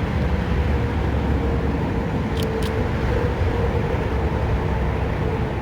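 Steady low vehicle rumble with a wavering hum above it, and two short clicks about two and a half seconds in.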